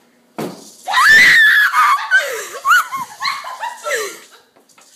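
A woman screaming in fright: a sudden long, high shriek starting about half a second in, breaking into shorter squealing cries that fade out near the end.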